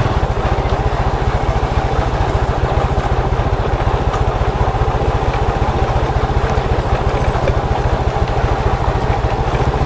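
Small motorcycle engine running steadily, with an even, rapid low pulse from its firing.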